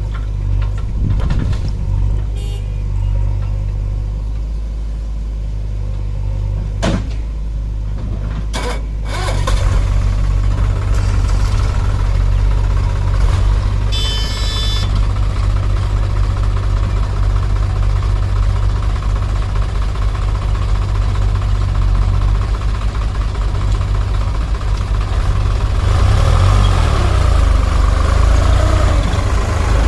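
Tractor diesel engine running steadily, getting louder and fuller about a third of the way through.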